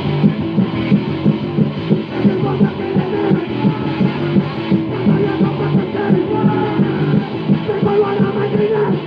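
Punk rock band playing guitar, bass and drums to a fast, even beat. The recording is a lo-fi 1982 demo with a dull, muffled top end.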